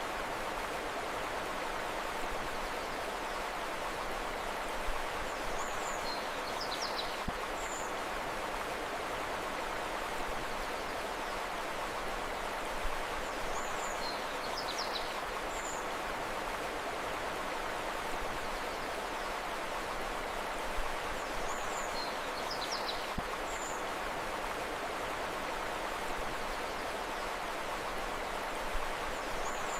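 Steady rushing of flowing river water, with the same small group of high bird chirps coming back about every eight seconds.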